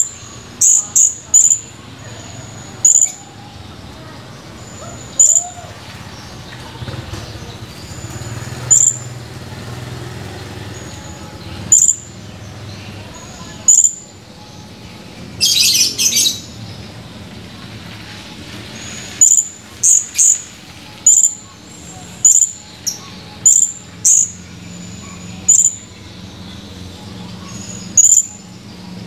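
Blue-crowned hanging parrot (serindit) calling: sharp, high-pitched single chirps every second or two, some in quick runs of two or three, with one longer, harsher burst about halfway through.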